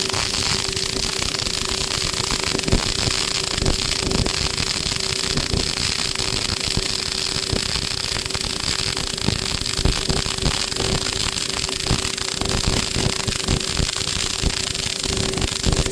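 MIG welding arc running continuously, a steady dense crackle with a constant hum underneath.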